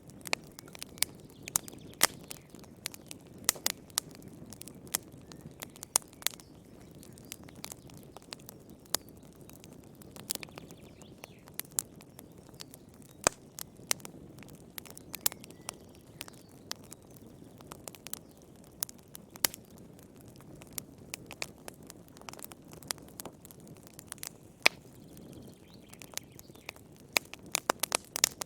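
Wood fire burning in a fireplace: irregular sharp crackles and pops of burning logs over a soft low rush of flame, with a quick run of pops near the end.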